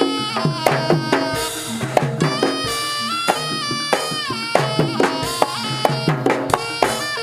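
Live Javanese jaranan senterewe music: steady, quick drum strokes under a reedy wind-instrument melody that bends and glides in pitch.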